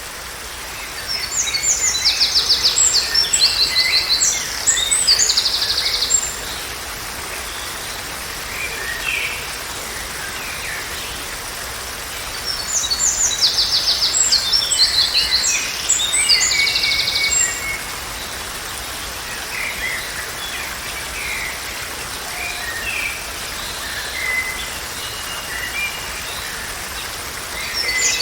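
Songbirds singing in two long bouts of rapid, high trilled phrases, with scattered shorter chirps between, over a steady background hiss.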